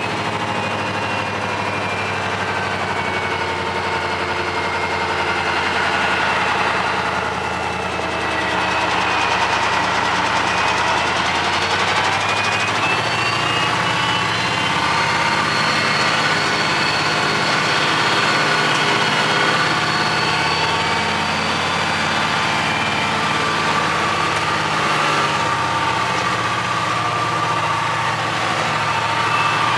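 Cummins 903 V8 diesel engine of a Ford LNT 9000 truck running as the truck is driven, its pitch rising and falling with the revs.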